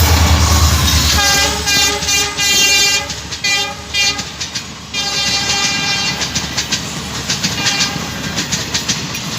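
Train horn sounding in repeated blasts over the deep rumble of a moving train: a long blast from about a second in, short ones, then a longer series of blasts.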